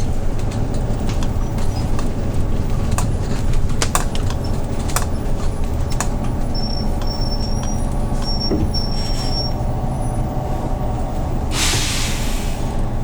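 Hyundai New Super Aero City CNG city bus, its natural-gas engine running at a steady low rumble, with a few sharp clicks and rattles. About a second and a half before the end comes a short, loud burst of compressed-air hiss from the bus's air system.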